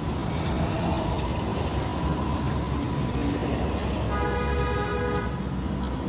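Road traffic noise with a steady low engine rumble. About four seconds in, a vehicle horn sounds once for about a second.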